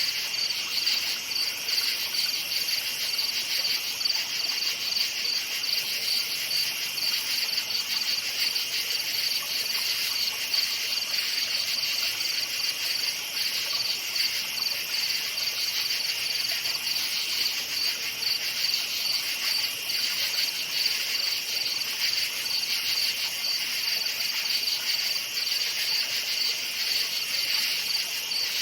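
Crickets chirping in a dense, steady chorus: a high-pitched pulsing trill with a fainter, slightly lower one beneath it.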